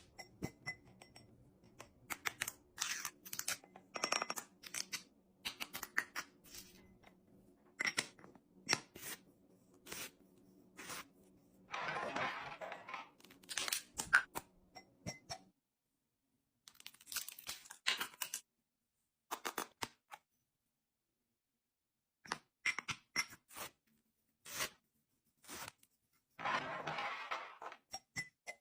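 Kitchen restocking handling sounds: many short clicks and taps of items and containers being picked up and set down, with two longer rustles of packaging, about twelve seconds in and near the end. A faint low hum runs under the first half and stops about halfway.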